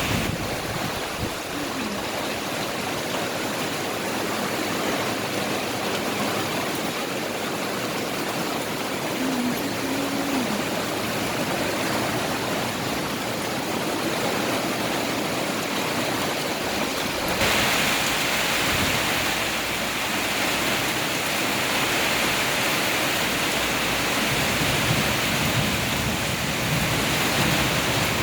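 Heavy storm rain pouring in strong wind, a steady rushing hiss. About seventeen seconds in it turns harsher and slightly louder.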